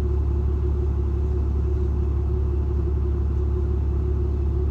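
Steady low rumble of a truck's engine running, heard inside the cab, with a constant hum above it.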